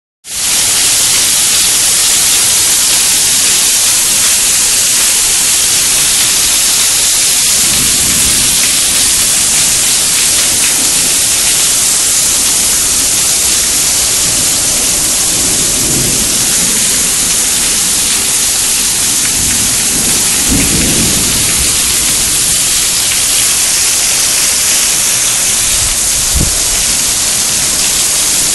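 Heavy rain pouring steadily, a dense hiss. A few low rumbles come and go through the middle, and a brief thump sounds near the end.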